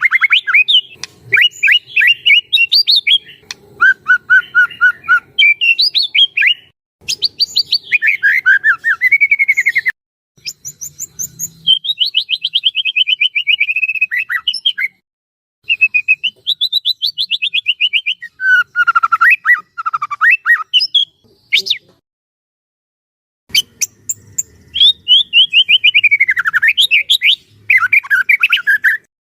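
White-rumped shama (murai batu) singing loudly in long, varied phrases of rapid whistled and trilled notes, broken by a few short silent pauses, the longest about two-thirds of the way through.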